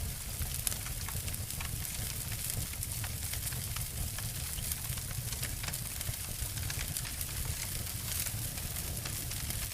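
Wood fire burning, with many small crackles and sharp snaps over a steady low rumble.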